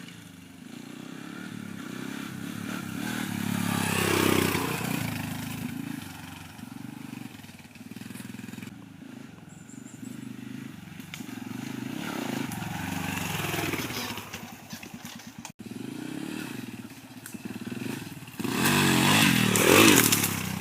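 Dirt bike engine running as it is ridden, revving up and easing off several times. The loudest rev comes near the end.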